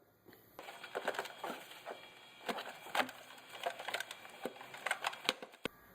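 Plastic engine-bay trim being handled and worked loose by hand: a string of irregular clicks, knocks and creaks from the plastic piece and its clips.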